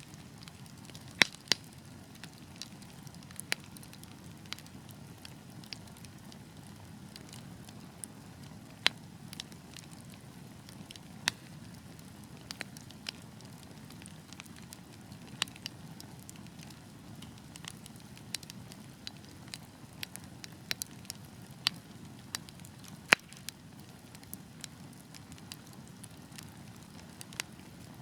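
Wood fire burning with a steady low rumble and frequent irregular sharp crackles and pops from the burning logs.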